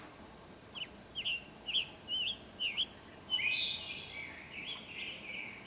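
A bird calling: a run of about six short, slurred chirps, roughly two a second, then a longer warbling phrase near the end.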